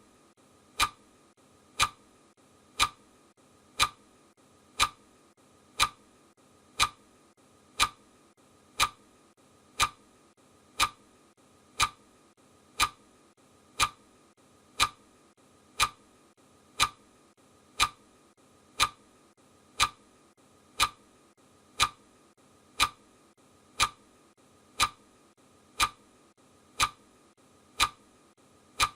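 Clock ticking, one even tick a second, from a countdown timer's ticking sound effect.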